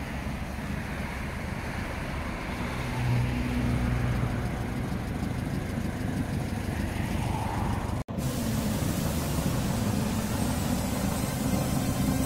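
Classic Volkswagen Beetle's air-cooled flat-four engine idling steadily, a low even rumble. The sound breaks off for an instant about eight seconds in, then the idle carries on.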